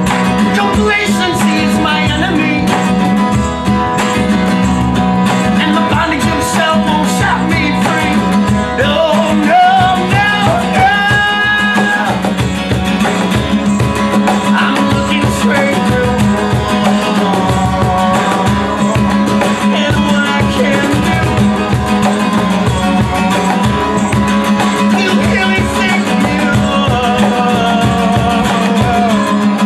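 Live guitar-led rock music, played steadily, with melodic lines that bend in pitch.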